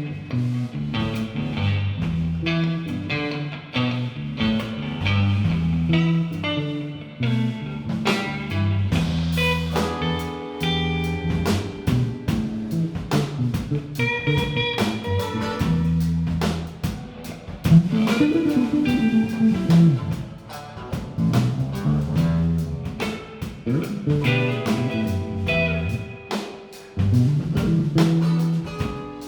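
Live band playing an instrumental passage with no singing: guitar lines over a drum kit and a stepping low bass line, with a sliding, bent note partway through.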